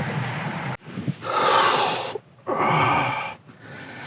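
A steady rush of noise that cuts off about a second in, then a person's breathing: two loud, breathy exhalations followed by a softer one near the end.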